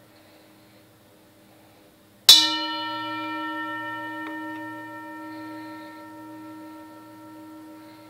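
An antique object struck once to test its ring, about two seconds in: a sharp hit followed by a long ringing tone of several pitches that slowly dies away. The start holds the fading ring of an earlier strike, and a faint tick comes about two seconds after the hit.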